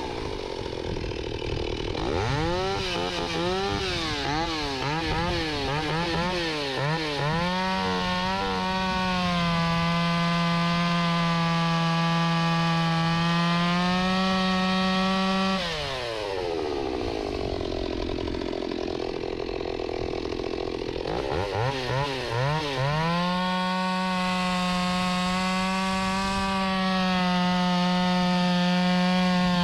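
Stihl 028 Wood Boss two-stroke chainsaw running through its freshly welded muffler: blipped up and down a few times, then held at full throttle, dropped back to a lower speed about halfway through, and revved up and held high again.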